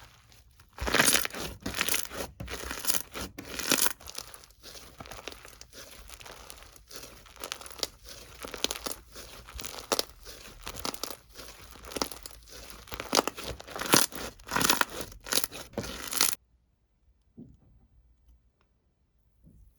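Crinkling and tearing of a crinkly material handled close up, in dense crackling bursts, which stops abruptly about sixteen seconds in, leaving only a few faint taps.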